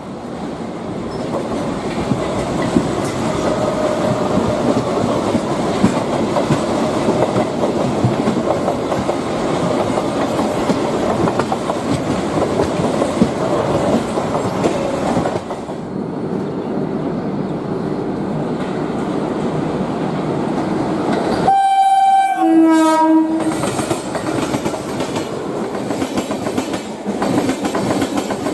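Train running past on the line, its wheels clattering over the rail joints. A little over three-quarters of the way through, the train horn sounds briefly in two notes, the first higher than the second.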